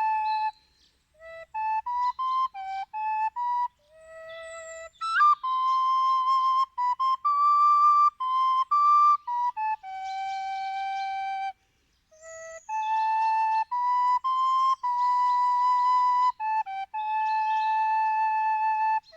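Solo flute playing a slow melody: long held notes mixed with short quicker ones, with brief pauses between phrases.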